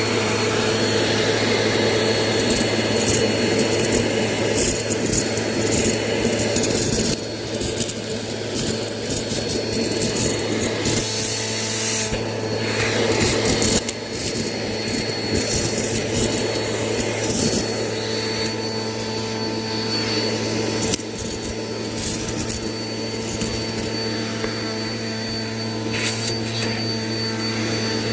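Bissell vacuum cleaner running steadily: a low motor hum with a thin high whine over a rushing airflow, its texture and loudness shifting every few seconds as the vacuum is worked.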